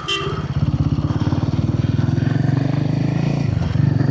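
Royal Enfield Himalayan 450's single-cylinder engine running under way through an aftermarket barrel exhaust, with a steady low pulse. A brief sharp sound right at the start. The engine note dips and picks up again about three and a half seconds in.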